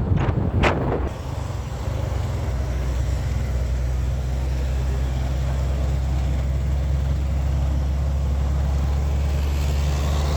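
Motorcycle engine running steadily while riding, a low even hum mixed with wind rumble. Two sharp knocks sound in the first second.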